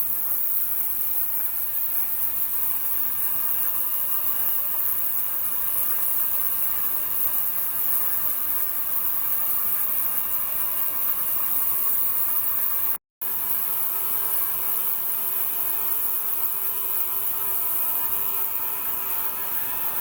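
Ultrasonic cleaner running, a steady high hiss with faint steady tones underneath. It cuts out completely for a moment about 13 seconds in, then returns with a low steady hum added.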